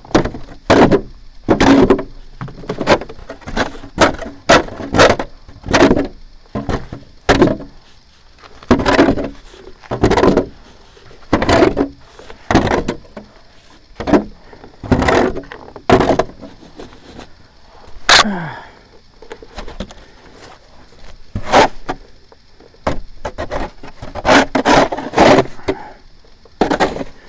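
Snow shovel repeatedly scraping and knocking on the steps of an outdoor fire escape as snow is cleared, in short irregular strokes with pauses between them. One longer scrape falls in pitch about eighteen seconds in.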